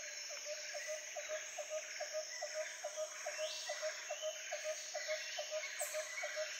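Forest ambience: a steady hiss of insects with a short call repeating about four times a second.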